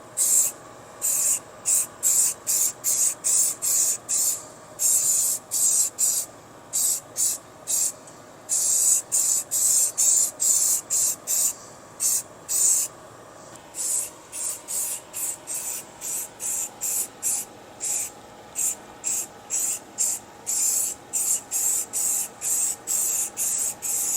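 Aerosol spray can of high-heat ceramic aluminum paint spraying in short hissing bursts, about two a second, with a few brief pauses between runs.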